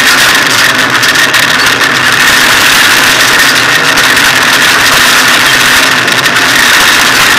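Hyundai rally car driving, its engine and road noise heard inside the stripped cabin as a loud, steady drone.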